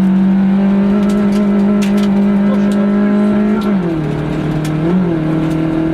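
A Renault Twingo rally car's engine at speed, heard from inside the cabin. Its note holds high and climbs slowly, drops sharply a little before four seconds in, gives a short blip about a second later, then holds steady again. A few sharp clicks are heard over it.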